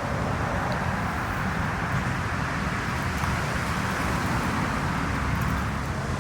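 Steady engine rumble with wind noise on the microphone.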